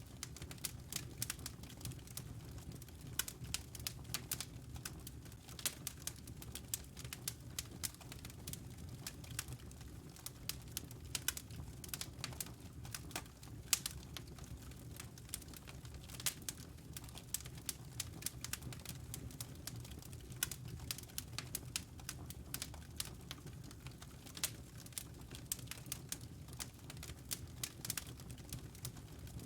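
Wood fire crackling: many small irregular pops and snaps, several a second, over a steady low rumble.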